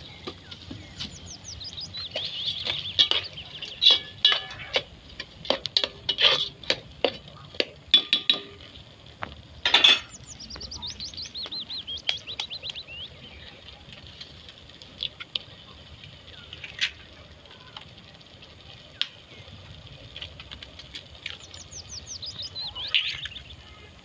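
Utensils clinking against dishes: a run of sharp clinks that thins out after about ten seconds. A bird sings quick series of high, falling trills three times.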